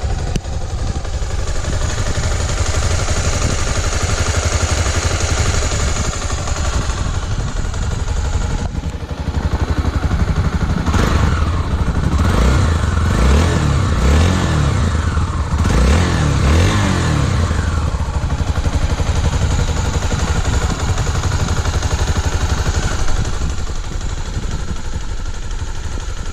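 Honda XR250 Tornado's single-cylinder four-stroke engine idling, revved in a series of quick blips about halfway through, then dropping back to a steady idle.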